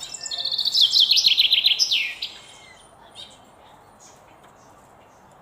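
A songbird singing one fast, loud phrase of rapid high chirping notes lasting about two seconds, the notes stepping down in pitch as it goes, followed by a few faint chirps.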